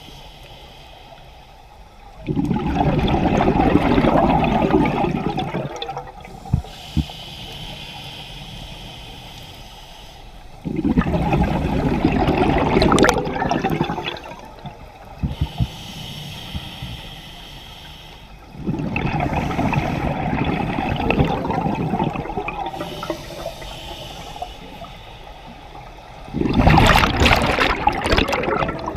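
Scuba diver breathing through a regulator underwater. Four long bursts of exhaled bubbles come about eight seconds apart, with a quieter hiss from the regulator on each inhale between them.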